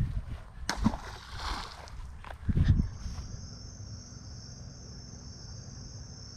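A few low thumps and a short rush of noise in the first three seconds, then an insect's steady high-pitched trill that starts about three seconds in and holds.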